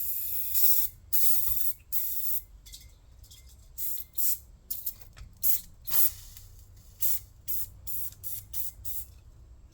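Aerosol degreaser can sprayed in repeated hissing spurts, longer in the first couple of seconds, then short and weak sputters: the can is running out.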